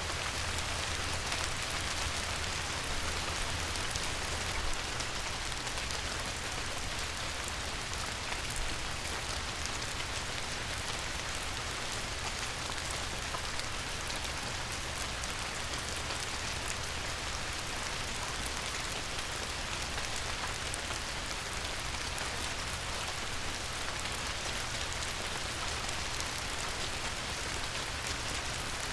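Light rain falling on a river: a steady patter of many small drops.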